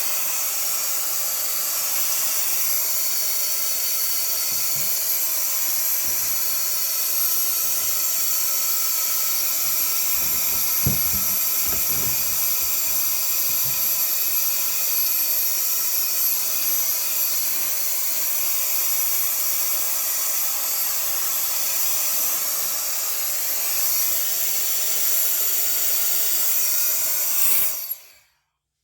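Small handheld blower running steadily with a loud hiss, blowing dust and gunk out of the threads of a drain pipe fitting. It shuts off suddenly near the end.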